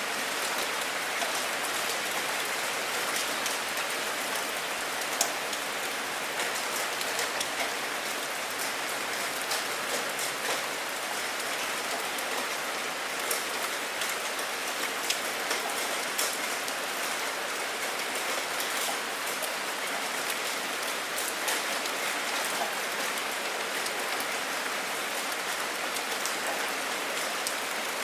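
Steady rain falling, an even hiss with many close individual drops ticking on a hard surface.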